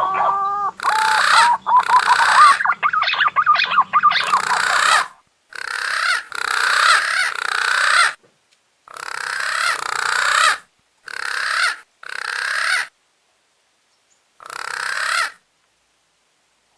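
Punai daun green pigeon calls: a few clear whistled notes at the start, then a long run of harsh, grating calls, each under a second long, repeated in groups with short gaps and ending about fifteen seconds in. This is a green-pigeon lure call used to draw punai in.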